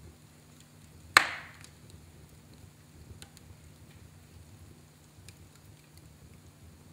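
Fire burning in a fireplace: one loud sharp pop about a second in, with a few faint crackles afterwards over a low steady hum.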